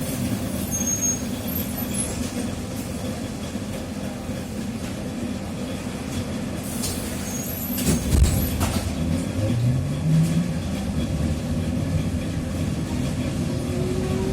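TrolZa-5275.05 Optima trolleybus heard from inside while running, with a thump and a few knocks about eight seconds in. After that, the whine of the DK-213A traction motor and Ishimbay drive axle rises in pitch as it picks up speed, and rises again near the end.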